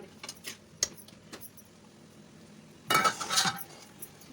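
Metal spoon or spatula knocking and scraping against a cooking pan while capsicum curry is stirred. There are a few sharp clinks in the first second and a louder, dense burst of scraping about three seconds in.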